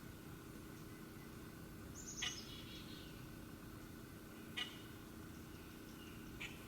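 Three short, sharp chip calls from a small wild animal, about two seconds apart, the first with a quick high squeak, over a faint steady low hum.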